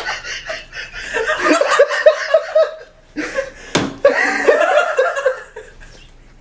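People laughing in two runs of quick ha-ha-ha pulses, with a single sharp smack a little past the middle.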